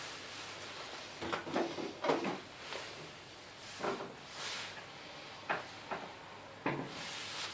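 Light knocks and clicks of household objects, likely a cupboard or tin being handled while dog treats are taken out, with a couple of short rustles.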